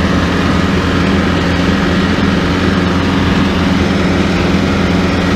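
Tractor engine running at a steady speed while mowing, a continuous even drone.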